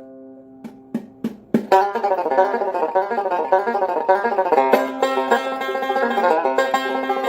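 Bluegrass-style banjo music: a few single plucked notes, then fast, steady picking from about two seconds in.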